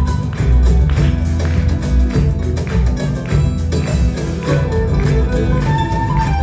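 Live Peruvian music: an ensemble playing with a heavy bass line, a steady percussive beat and melodic lines above.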